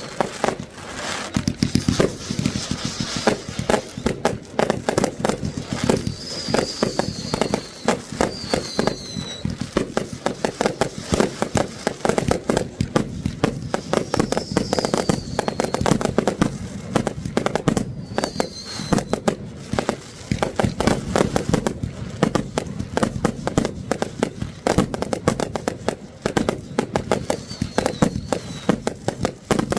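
Fireworks going off in a dense, continuous string of bangs and crackles, with a short high falling whistle several times.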